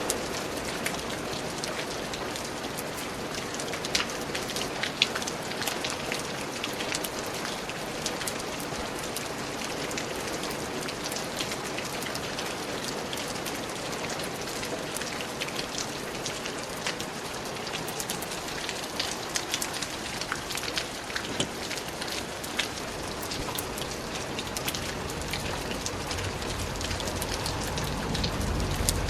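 Steady rain falling, with many separate drops tapping sharply on surfaces over the continuous hiss. A low rumble swells near the end.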